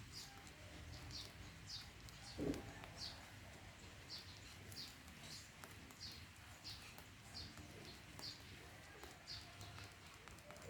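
Faint, repeated high chirps from a small bird, short falling notes at about two a second. About two and a half seconds in there is a brief lower sound.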